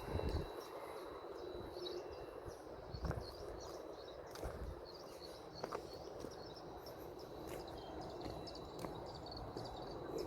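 Outdoor ambience: small birds chirping and twittering over a thin steady high insect-like tone, with a few faint clicks.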